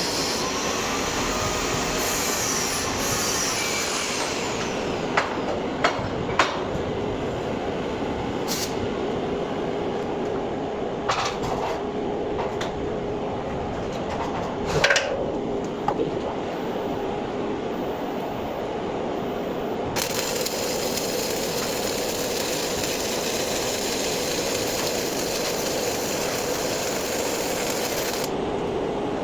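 MIG welding arc crackling and buzzing steadily through a long continuous bead, with a few sharper pops along the way.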